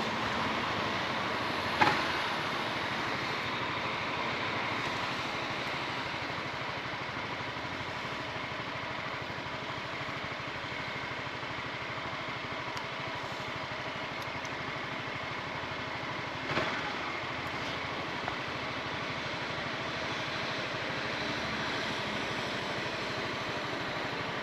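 Honda ADV 350 scooter's single-cylinder engine running steadily with road and wind noise. Two sharp knocks stand out, about two seconds in and again about sixteen seconds in.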